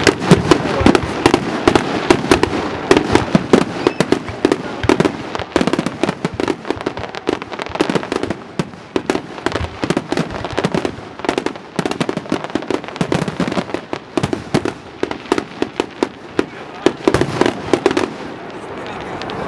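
A fireworks display in a rapid, dense barrage of crackling bangs, many per second, with some louder reports. It thins out near the end, as the display's closing barrage.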